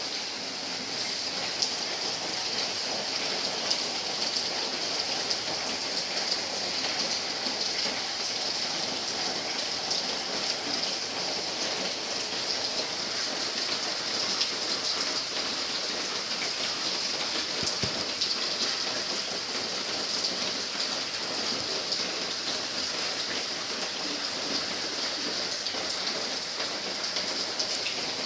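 Rain falling steadily in a dense hiss of drops, with scattered sharper taps.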